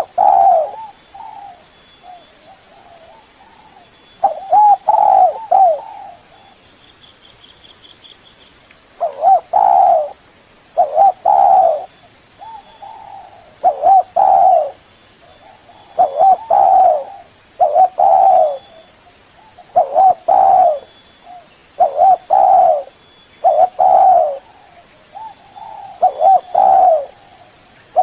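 Spotted dove cooing: short phrases of a few coos each, repeated about every two seconds, with one pause of about three seconds near the middle.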